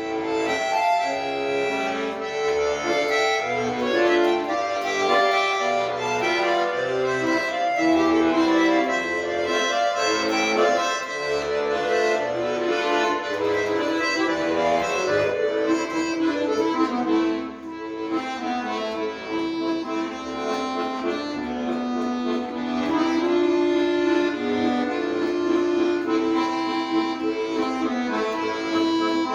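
Accordion playing a song solo, with melody over chords, starting suddenly at the outset and playing on without a break.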